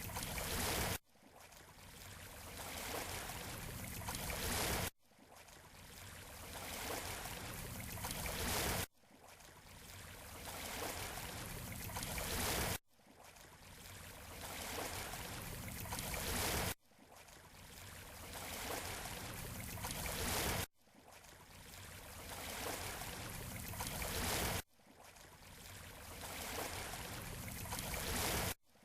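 Surf washing on a beach shore, a steady rushing noise. It comes as a short stretch that swells over about four seconds and then cuts off abruptly, repeating at even spacing like a looped recording.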